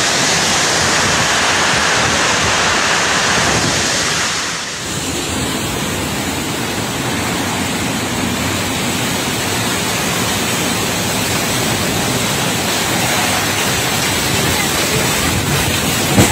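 Storm wind and heavy driving rain, a steady loud rushing noise, with a brief dip about four and a half seconds in.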